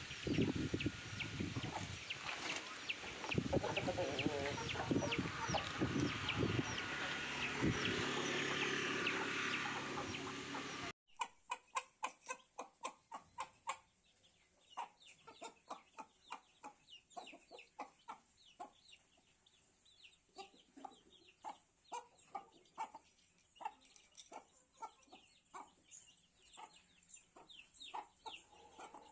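Aseel chickens clucking and calling: a loud, dense stretch of many overlapping calls, then after an abrupt cut about eleven seconds in, a quieter run of many short, sharp calls.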